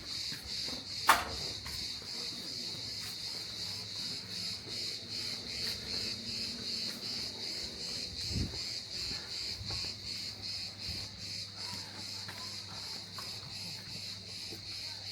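Steady, high-pitched chirring of insects, pulsing rapidly, with a sharp click about a second in and a low thump a little after eight seconds.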